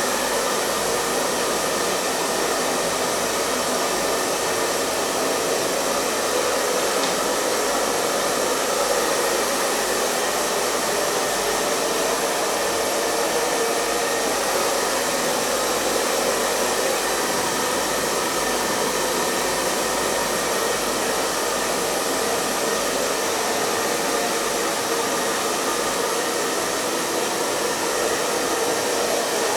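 Hair dryer running continuously: a steady blowing hum with a faint whine, unchanging throughout.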